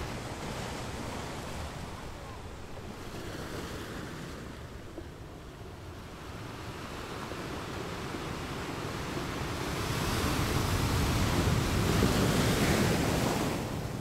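Ocean surf: small waves breaking and washing up the beach. The wash builds slowly to its loudest over the last few seconds, then eases off near the end.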